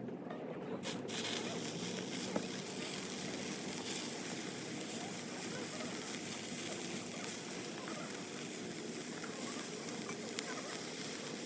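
Wood fire crackling steadily, with many small scattered pops.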